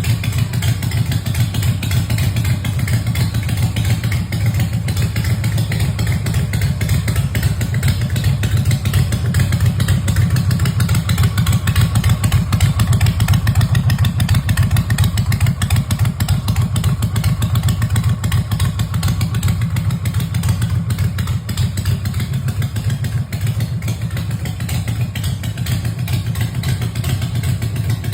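Motorcycle engine running steadily with a deep exhaust note and rapid firing pulses, getting a little louder partway through.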